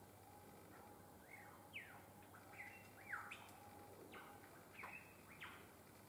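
Small bird calling faintly: a loose string of about seven short chirps, each sliding quickly up or down in pitch, with faint steady background hiss.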